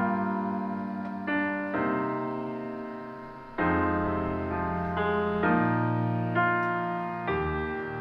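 Piano playing slow chords, each struck and left to ring and fade before the next, a new chord roughly every second.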